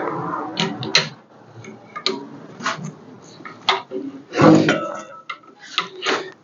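Metal tools and parts clinking and knocking irregularly during engine removal work, with a louder clatter about four and a half seconds in.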